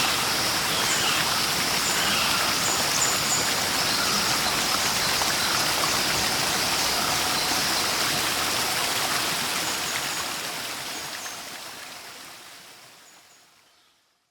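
Steady rush of falling, flowing water with small birds chirping over it in short high notes. The sound fades out gradually over the last few seconds.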